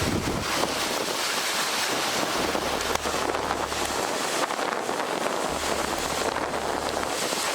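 Steady rushing wind noise on the microphone with the drone of a moving vehicle.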